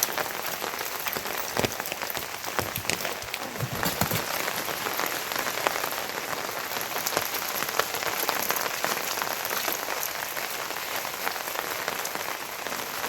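Heavy rain falling steadily on a surface, a dense hiss dotted with many sharp ticks of single drops landing close by.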